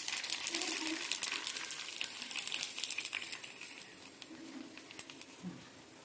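Dense, irregular crackling and light clicking that fades away over the last two seconds or so.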